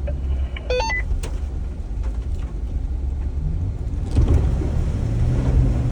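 Jeep's engine running under load as it drives through a mud hole, with a louder spell of splashing and rumbling from about four seconds in. A short run of electronic beeps sounds about a second in.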